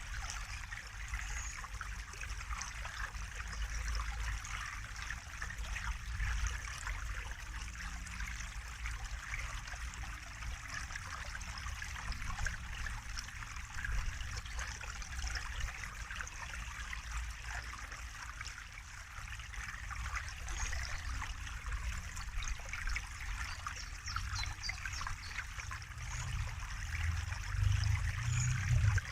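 Water trickling steadily, an even splashing hiss with small droplet flecks, over a low rumble that swells near the end.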